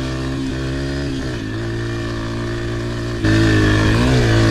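Yamaha TTR125's single-cylinder four-stroke engine running under throttle on a trail ride, its pitch dipping and rising a little with the throttle. It turns suddenly louder about three seconds in.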